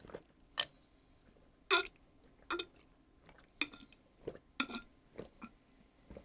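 A person's short, scattered mouth and throat noises: a brief voiced grunt or burp-like sound a little under two seconds in, and several smaller clicks, breaths and lip sounds, made by someone eating an extremely hot chip without speaking.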